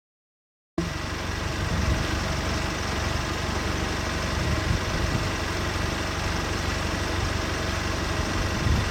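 Game-drive vehicle engine idling steadily, cutting in suddenly about a second in.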